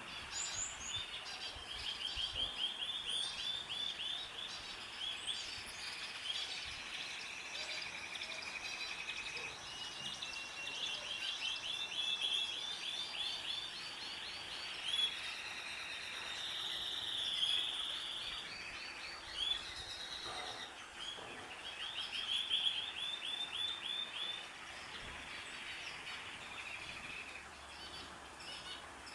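Several small birds chirping and singing together, with overlapping rapid trills repeated throughout.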